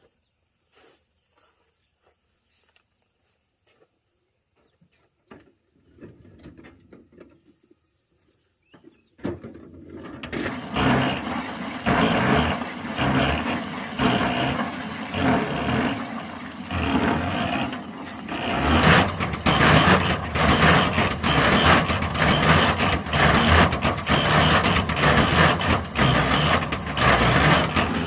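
A faint steady high whine with a few light clicks, then about nine seconds in a small engine starts and keeps running with a fast low pulse, growing louder about halfway through.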